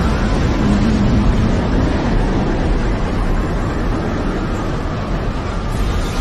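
Tornado wind blowing hard and steadily, with a low rumble of wind buffeting the microphone.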